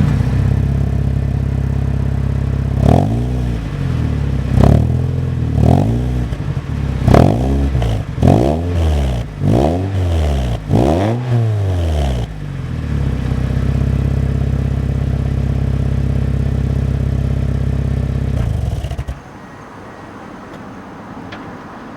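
Mazda Roadster NB8C's 1.8-litre four-cylinder engine through a MANZO stainless-steel catback exhaust with its silencer insert fitted: idling, then blipped about nine times in quick revs, settling back to a steady idle. The engine is switched off about nineteen seconds in.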